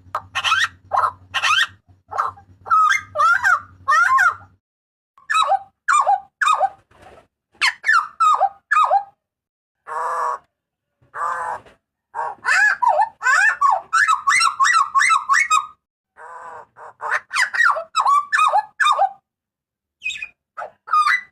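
Hooded butcherbird calling loudly: rapid bursts of short, clear whistled notes that slide up and down in pitch, separated by brief pauses. Around ten seconds in it gives a couple of harsher, rasping notes.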